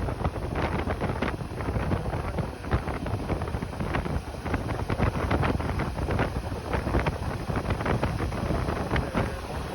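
Wind buffeting a microphone on a moving motorcycle: a rough rushing noise that swells and dips unevenly.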